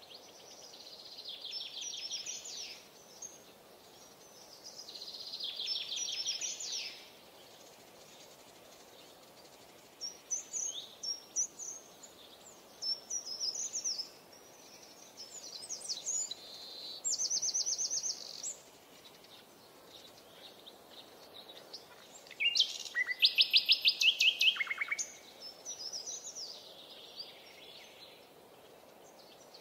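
Birdsong: several short trilled phrases of rapid repeated high notes a few seconds apart, the loudest about two-thirds of the way through.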